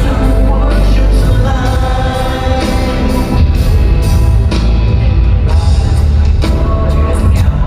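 Live band music with singing: rock-pop backing with heavy bass and drums, loud and steady.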